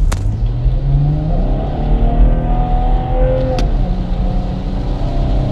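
2019 Chevrolet Camaro's NPP dual-mode exhaust, heard from inside the cabin, rising in pitch as the car accelerates. About three and a half seconds in, a click and a drop in pitch mark an upshift, and the engine then pulls at a steadier tone. The exhaust valves are held open by the pulled NPP fuse, so it runs at its loud sports-mode setting.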